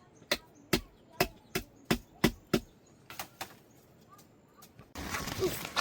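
A run of sharp chopping or knocking strikes, about two or three a second: seven strong ones, then two fainter ones, then a hiss of noise begins near the end.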